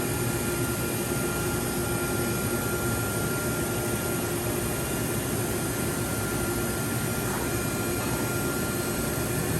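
Johnford DMC-1200HN gantry machining center running with its spindle turning at 6,500 RPM: a steady hum with a low tone and a fainter high whine, very quiet for the machine.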